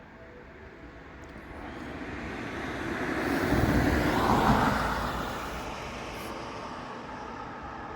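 A vehicle passing by: a rushing noise that swells, peaks around the middle and fades away.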